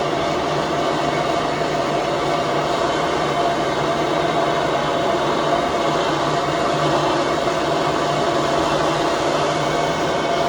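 Gas soldering torch flame burning with a steady roar, with no change in level.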